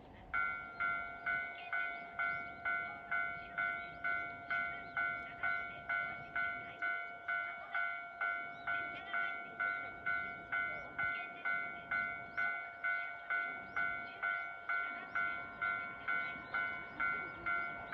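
Japanese railway level-crossing alarm ringing: a two-tone electronic bell that starts suddenly and strikes about twice a second, the signal that a train is approaching. Under it runs a steady faint tone.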